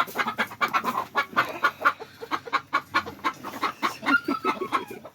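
Chickens clucking and squawking in a rapid run of short calls, with a brief gliding call about four seconds in.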